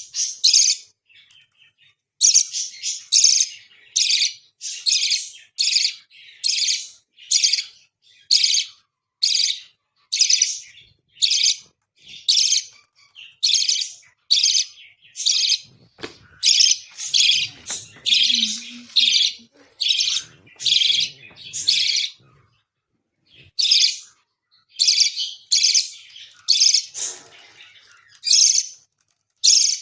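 Baby parrot's begging calls during feeding: short harsh high-pitched cries repeated over and over, about one to two a second, with a brief pause about three-quarters of the way in.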